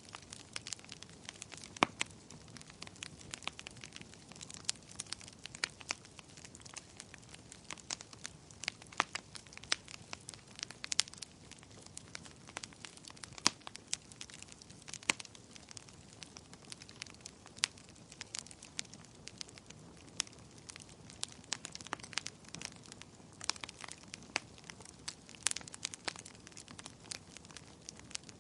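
Wood fire burning in a fireplace, crackling with frequent irregular sharp pops and snaps over a faint steady hiss.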